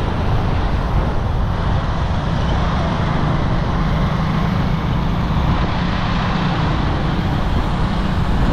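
Steady road noise from riding on a boda boda motorcycle taxi through city traffic: the motorbike running and air rushing past, with no breaks.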